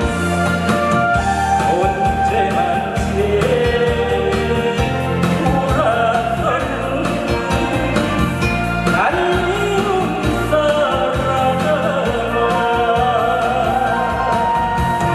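A solo singer's voice carrying a melody with vibrato over accompanying music with a steady beat.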